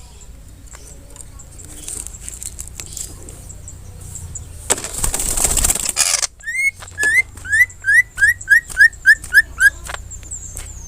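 Cucak ijo (greater green leafbird) whistling a run of about ten short rising notes, roughly three a second, after a loud second-and-a-half burst of rustling.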